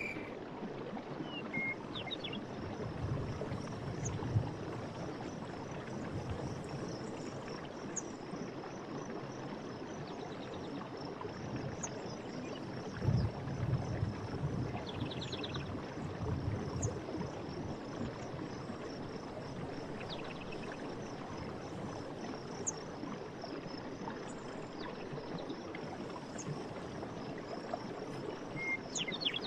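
Stream water running steadily, with low gurgling surges about three seconds in and again around the middle. A steady high insect trill sits over it, and a few short bird chirps come and go.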